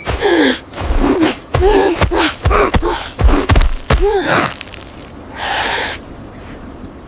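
A voice gasping and making short wordless sounds, several in quick succession, with a few soft thuds; a long breathy exhale about five and a half seconds in.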